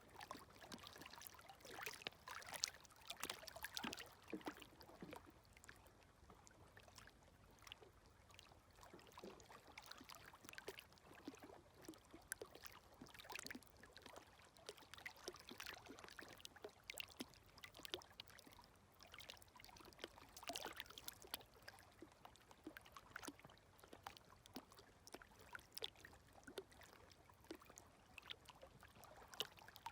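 Faint, gentle small waves lapping at the shoreline, with many light crackling, trickling ticks of water as each ripple washes in and drains back. A few slightly stronger laps come in the first few seconds and again about two-thirds through.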